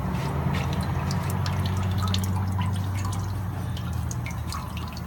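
Old engine oil draining from a 2015 Honda Civic Si's oil pan, dripping and splashing into a drain pan in scattered irregular drops, over a steady low hum.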